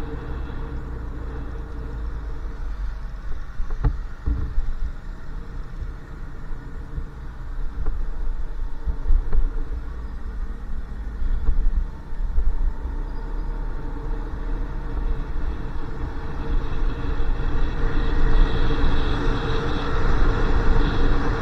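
Motorcycle running steadily while being ridden, with a low rumble of wind and road noise on the rider's microphone. It grows a little louder near the end, and a couple of brief knocks come about four seconds in.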